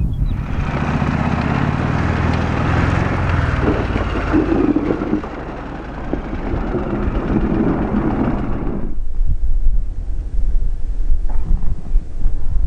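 Adventure motorcycle riding on loose dirt: the engine runs low under a rough hiss of tyres on gravel. The hiss stops suddenly about nine seconds in, leaving wind on the microphone.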